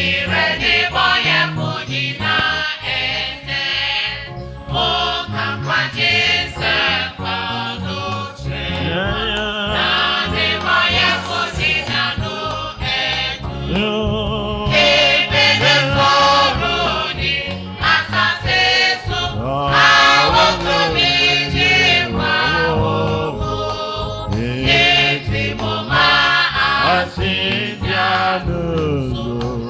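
Gospel music with a choir singing over a steady instrumental accompaniment.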